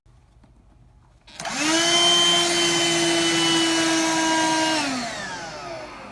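Black+Decker 20V Dustbuster cordless handheld vacuum switched on about a second in: its motor spins up quickly to a steady high whine with a rush of air. It runs for about three and a half seconds, then is switched off and winds down, its pitch falling.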